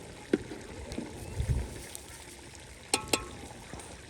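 Metal cookware clinking: a light knock, a dull thump, then two sharp clinks in quick succession near the end with a short metallic ring.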